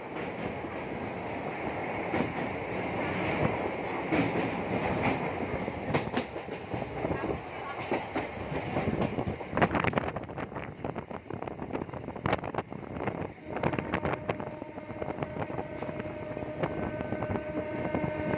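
Electric multiple-unit (MEMU) train running, heard from an open coach door: a dense rumble while crossing a steel girder bridge, then wheels clacking sharply over rail joints. A faint steady whine comes in over the last few seconds.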